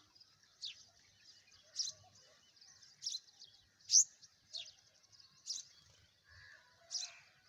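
A small bird chirping: short, high notes that sweep downward, repeated about once a second, the loudest about four seconds in.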